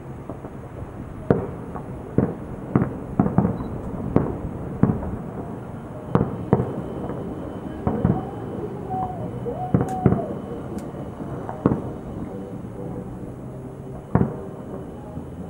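Fireworks salute: aerial shells bursting in a series of about a dozen sharp booms at irregular intervals, some followed by a short echo.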